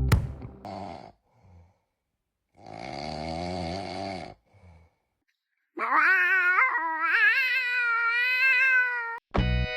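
A dog's voice: a wavering call, then a longer, louder howl that rises in pitch and holds with a wobble.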